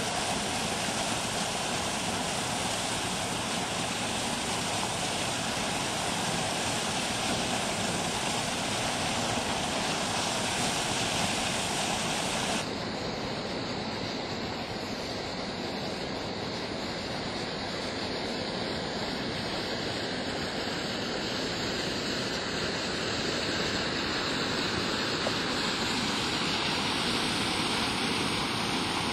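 Water rushing and splashing steadily as it spills over a small fall in an irrigation canal. About twelve seconds in, the sound turns duller, with less hiss.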